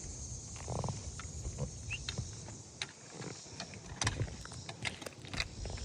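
Footsteps and scuffs on a roof: irregular short knocks and shuffles as a person walks across it, over a steady high hiss.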